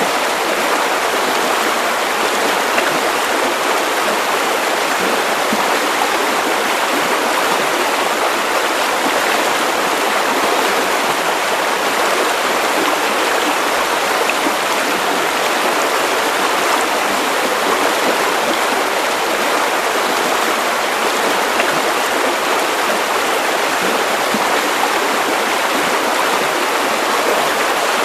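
Steady white noise for sleep: an even, unbroken hiss with little deep rumble.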